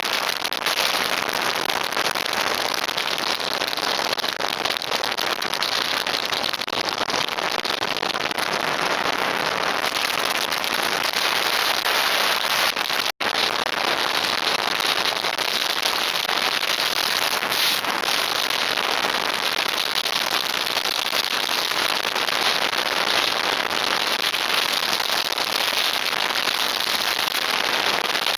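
Wind noise on a Contour action camera's microphone: a loud, steady crackling hiss, cut by a split-second silence about 13 seconds in.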